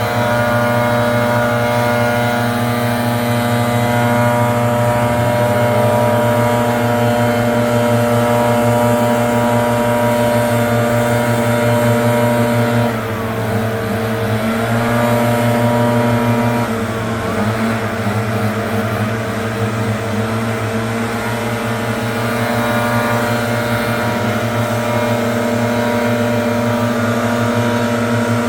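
Leaf blower engine running steadily at high throttle, easing off briefly about halfway through and again a few seconds later before settling back to a steady run.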